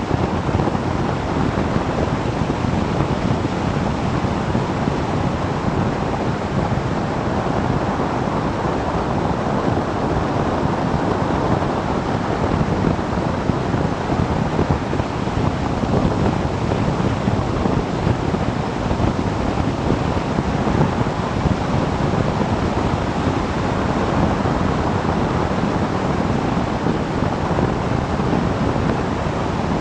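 Steady rush of wind over the microphone of a camera on a moving motorcycle, an even noise with no distinct engine note standing out.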